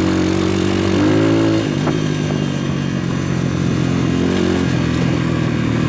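PitPro 140cc pit bike's single-cylinder four-stroke engine running under way on a trail ride. The revs rise about a second in and drop back shortly after, then it runs steadily.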